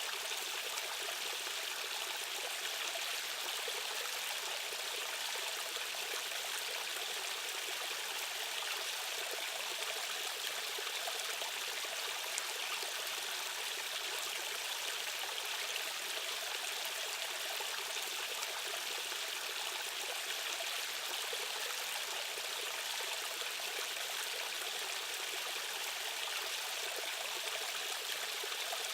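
A stream of fast-flowing water rushing and splashing over rocks, a steady, even rush.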